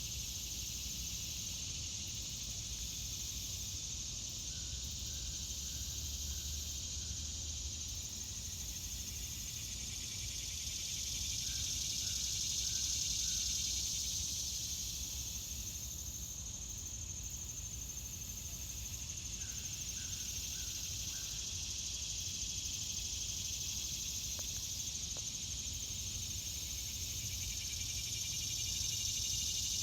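Outdoor insect chorus: a dense, steady high-pitched buzzing that swells and eases in slow waves. Short runs of four or five quick notes come back every several seconds.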